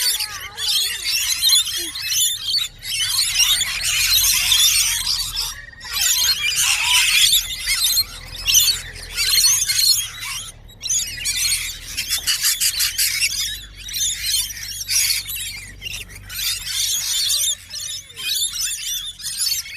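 A flock of birds chattering loudly and continuously, in dense high-pitched calls broken by brief pauses.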